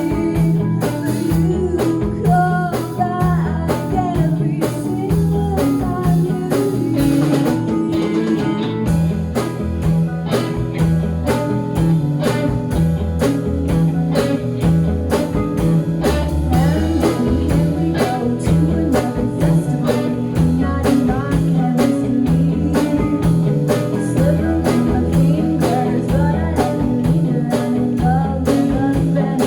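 Live rock band playing, with a blues-flavoured guitar line over bass and drum kit at a steady beat.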